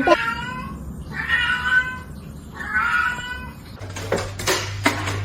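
Domestic cat meowing: two drawn-out meows of about a second each. Near the end come a few sharp clicks or knocks over a steady low hum.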